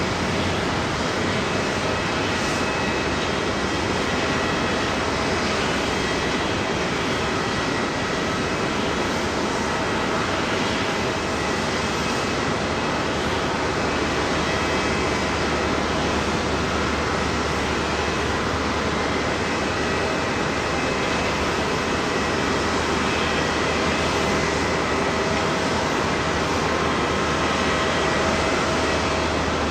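Jet airliner engines running at a steady level: a constant rushing noise with faint steady whining tones, neither rising nor falling.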